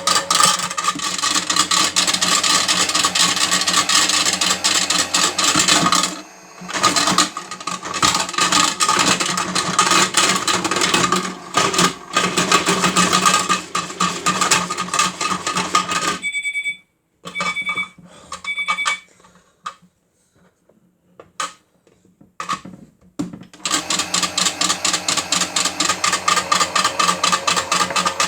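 Batteries rattling and clattering inside the spinning plastic drum of a toy Miele washing machine, a dense, continuous clatter of knocks. Around the middle the clatter stops, three short electronic beeps sound, and after a quieter pause with a few scattered knocks the rattling starts up again.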